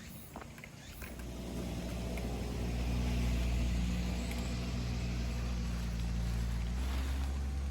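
A motorcycle engine running at low revs. It comes in about a second in, swells over the next couple of seconds and then holds steady, with a slight drop in tone near the end.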